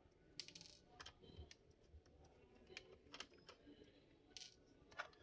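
Faint, irregular clicks and light taps, roughly one a second, from hands and a small screwdriver working on the underside of an opened Samsung R580 laptop.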